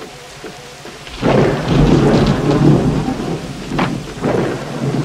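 Thunderstorm: rain falling, then a loud rolling thunder rumble that breaks in about a second in, with a sharp crack near the middle.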